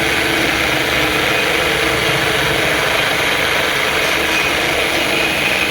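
Electric drill machine running steadily, spinning a makeshift spindle of two grinder discs clamped on a nut and bolt, used as a lathe for grinding.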